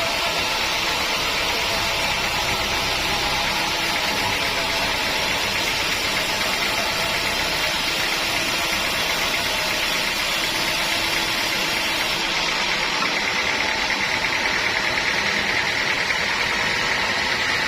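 Sawmill machinery running steadily: a loud, even mechanical noise with no breaks.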